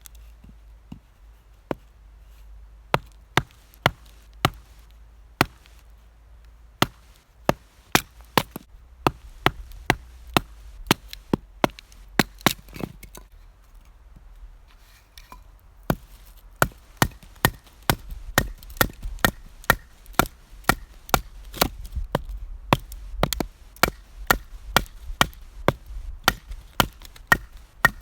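Firewood being split with a blade: a long series of sharp wooden chopping strikes. They are sparse at first, then steady at one to two a second, with a short pause about halfway.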